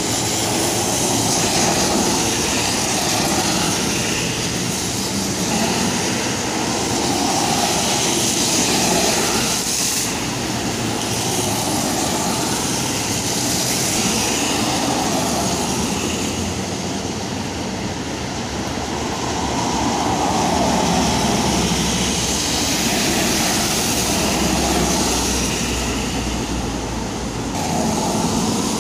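Road traffic passing on a rain-soaked road, tyres hissing through standing water, the sound swelling each time a vehicle goes by.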